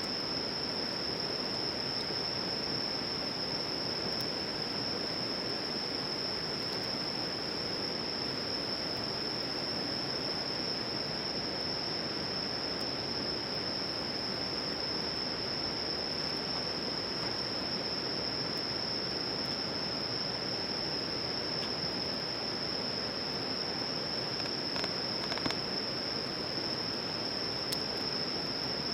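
Steady rushing of a flowing stream with a constant high-pitched insect drone over it, and a couple of faint crackles near the end.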